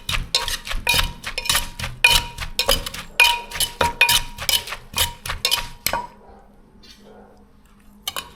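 Som tum being pounded and tossed in a mortar: pestle knocks with a spoon clinking against the bowl, quick and rhythmic at about three strokes a second, stopping about six seconds in. One more sharp click near the end.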